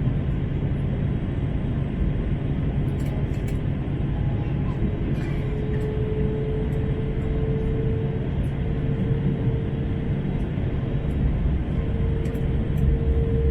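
Cabin noise inside an Airbus A321: a steady engine-and-airflow rumble. About five seconds in, a single humming tone joins it and slowly rises in pitch.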